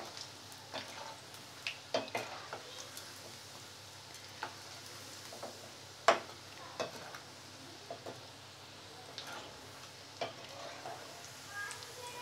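Besan (gram-flour) fries deep-frying in hot oil with a steady sizzle, broken by scattered sharp clicks as a perforated steel slotted spoon turns them in the pan.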